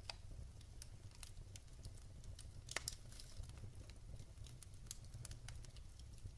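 Wood fire crackling in a fireplace: irregular sharp pops and snaps over a low steady rumble, the loudest pop a little under three seconds in.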